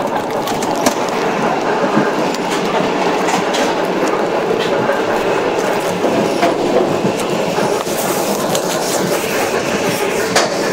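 Inside a moving suburban electric train carriage: a steady running rumble with scattered clicks and knocks from the wheels and car, with faint passenger voices.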